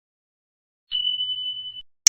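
A single steady, high whistled tone about a second long, starting about a second in, with no change in pitch.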